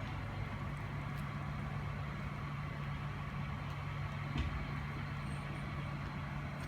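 A large vehicle engine idling steadily, a low even hum, with a single faint knock about four and a half seconds in.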